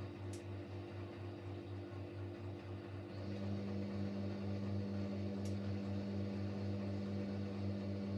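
Siemens Siwamat Plus 574 washing machine running between rinse and spin stages: a steady, slightly pulsing low hum, with a second steady higher hum that switches on about three seconds in and stops near the end.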